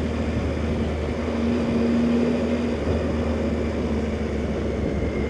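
Motorcycle engine running steadily under way, with road and wind noise, picked up by the rider's helmet microphone; a steady humming note comes in for about a second midway.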